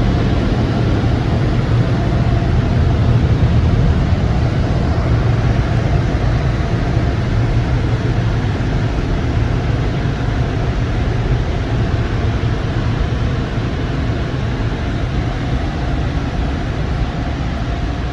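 Automatic tunnel car wash machinery heard from inside the car's cabin: a loud, steady noise from the wash equipment, easing slightly near the end.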